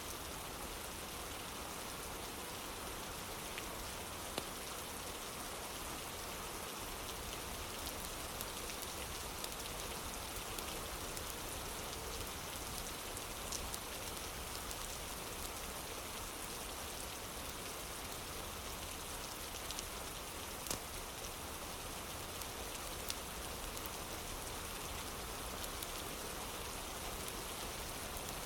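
Steady rain falling, with a few sharp pops scattered through it.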